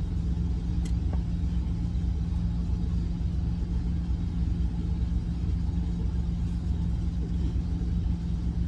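Steady low rumble and hum of a semi-truck's diesel engine idling, heard inside the cab, with a faint click about a second in.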